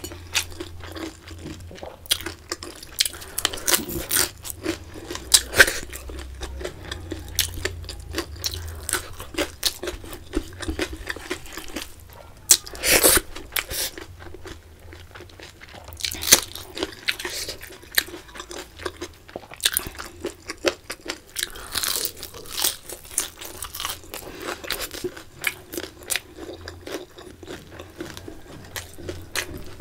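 Close-miked eating: a person crunching and chewing crispy fries and fried food, a dense run of sharp crackling bites with several louder bursts of crunching, the loudest near the middle.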